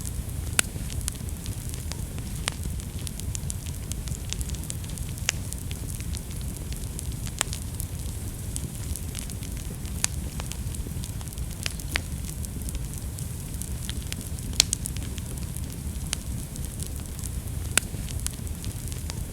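Wood fire crackling in a fireplace: a steady low rumble and hiss of flames with sharp pops every second or two, the loudest pop about fifteen seconds in.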